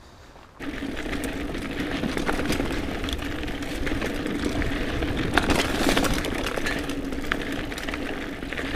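Mountain bike rolling fast along a dirt singletrack trail: a steady rush of tyre noise with scattered clicks and rattles from the bike. It starts abruptly about half a second in.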